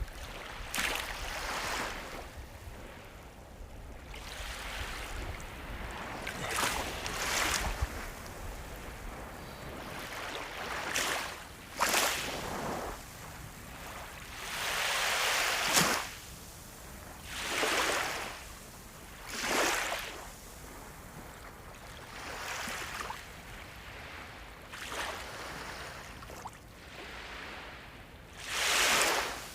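Sea waves breaking and washing in, a rush of surf every few seconds that swells and dies away over a second or two.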